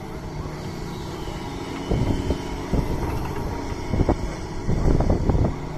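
Doosan DX225 excavator's diesel engine running steadily, with irregular louder rushes of noise from about two seconds in as it works.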